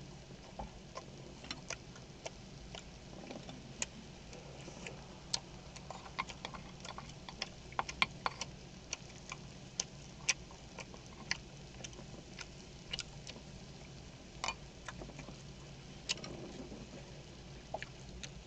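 Sounds of eating at a table-grilled pork belly meal: scattered sharp clicks and small pops, about one or two a second, over a low steady hum.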